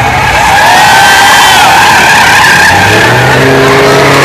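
Ford F-350 tow truck's tires squealing and skidding as it spins donuts, the squeal wavering in pitch. About three seconds in, the gas engine's steady high-rev note grows louder under it.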